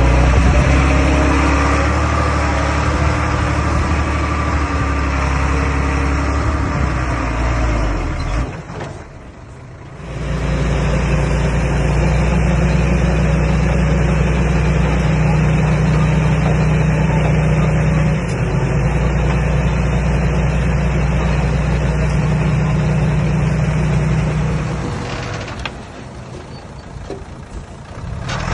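Komatsu D21A bulldozer's diesel engine running steadily while it works. The sound drops much quieter twice, briefly about nine seconds in and again for the last few seconds.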